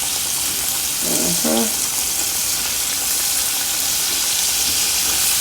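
Chicken deep-frying in a pot of hot oil, a steady sizzle. A brief vocal sound about a second in.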